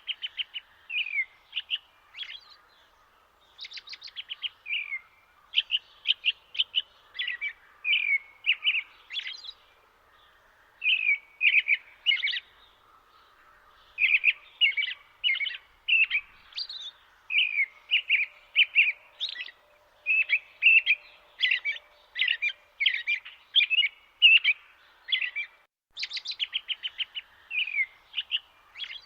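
Small birds chirping in quick runs of short, high notes with brief pauses, over a faint steady background hiss.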